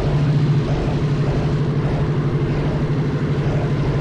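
Minibike engine running at a steady speed, a continuous buzzing drone with a fast even pulse.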